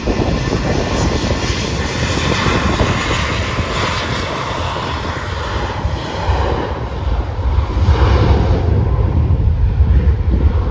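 Airbus A320 airliner's jet engines running loud, with a whine that slowly falls in pitch. A low rumble swells from about halfway through.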